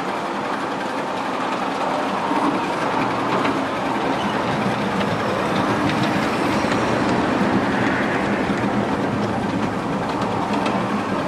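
Miniature railway train running along the track: a steady rumble of wheels on rail, with a few faint clicks over the rail joints.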